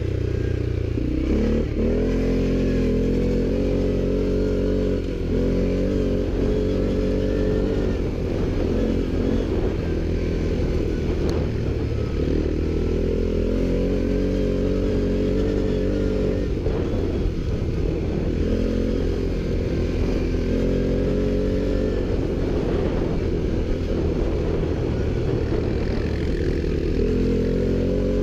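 ATV engine running under load, its pitch climbing again and again as the throttle opens and dropping back in between.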